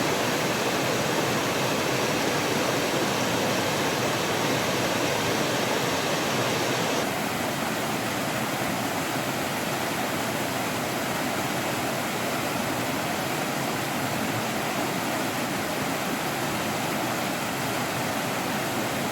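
Mountain stream rushing over rocks, a steady full water noise. About seven seconds in it drops abruptly to a slightly softer, duller rush.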